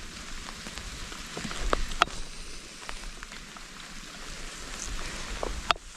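Rain falling steadily, with scattered drops striking close by as sharp ticks, two of them louder, about two seconds in and near the end.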